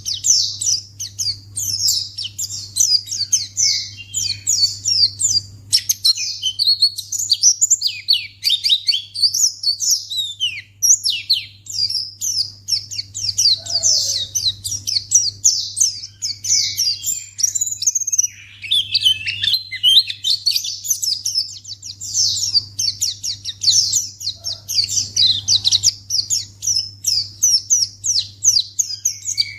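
White-eye (pleci) birds chirping and trilling in a rapid, unbroken stream of high, quick notes, over a low steady hum.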